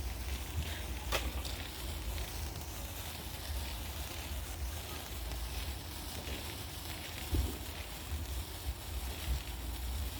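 Distant fireworks: a sharp bang about a second in and a duller thump about seven seconds in, over a steady low rumble and faint hiss.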